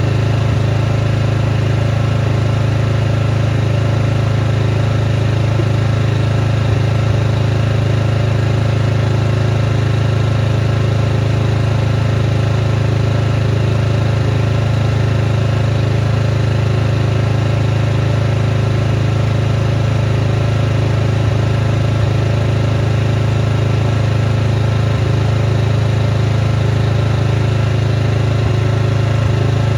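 Small engine running steadily at constant speed, with an even low hum that does not change.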